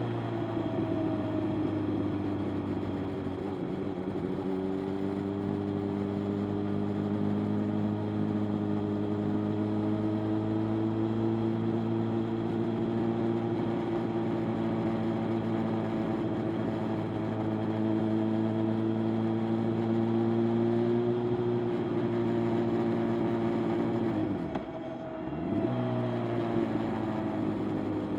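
Motorcycle engine running steadily under way, with wind and road noise. About three-quarters of the way through, the engine note and loudness dip briefly, as at a gear change or a roll-off of the throttle, then pick up again.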